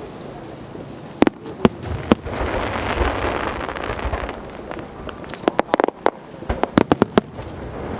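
Aerial fireworks going off: three sharp bangs in quick succession, then a fast volley of about a dozen sharp bangs a few seconds later, over a steady noisy background.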